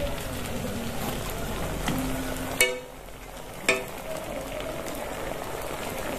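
Potato and sago pakoras deep-frying in hot oil in a karahi, a steady sizzle, as a metal spatula stirs and turns them. Twice, a little over a second apart, the spatula clinks against the pan with a short ring.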